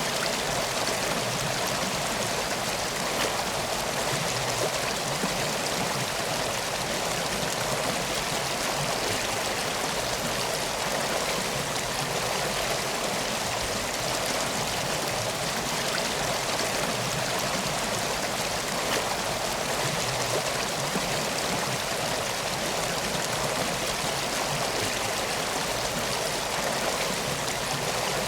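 Steady rushing of flowing water, like a stream, an even hiss with no breaks or distinct splashes.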